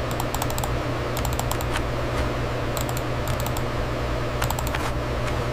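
Typing on a computer keyboard in short bursts of keystrokes with pauses between, over a steady low hum.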